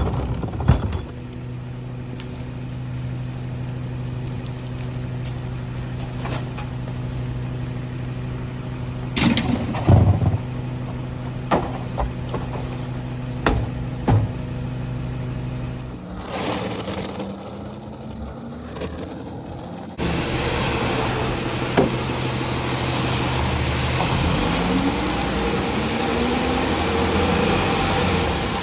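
Garbage truck's diesel engine running steadily, with several sharp knocks and clanks of trash being handled in the middle. Later the truck runs louder, and the engine pitch rises and falls near the end.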